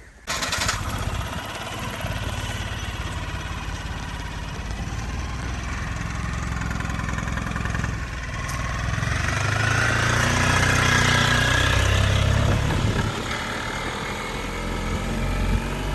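An engine running, starting abruptly just after the beginning, its pitch rising and falling and louder past the middle.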